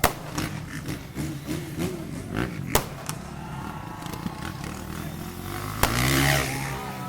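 Freestyle motocross bike engine revving up and down in short blips, with three sharp cracks over the top, the loudest near the end.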